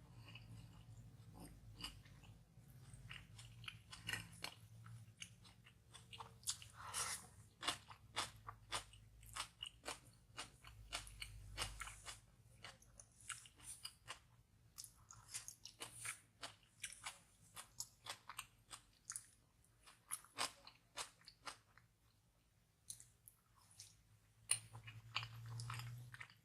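Close-miked chewing and biting while eating tteokbokki rice cakes and kimchi: faint wet smacks and crunches, several a second, with short pauses between mouthfuls.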